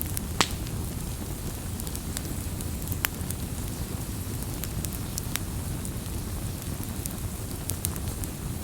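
Campfire crackling: a steady low rush of burning with scattered sharp pops and snaps, the loudest pop about half a second in and another near three seconds.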